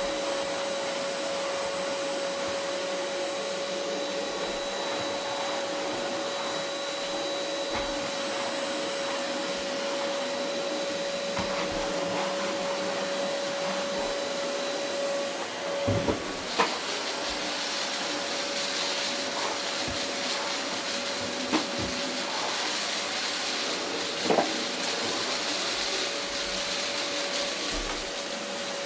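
Vacuum cleaner running steadily over carpet with a constant motor whine. About halfway through the pitch of the whine breaks briefly and there are a few sharp knocks, and after that the sucking hiss is brighter.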